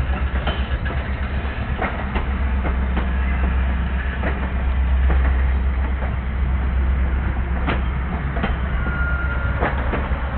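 A circus train rolling past at close range: a steady low rumble with the clack of wheels over rail joints about once a second, and a faint thin high whine near the end.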